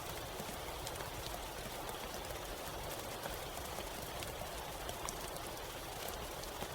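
Steady rain falling in a forest, an even hiss with scattered close drops ticking on leaves.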